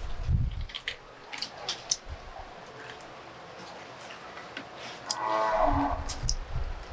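A cow mooing once, a single call of about a second near the end, among scattered short clicks and knocks.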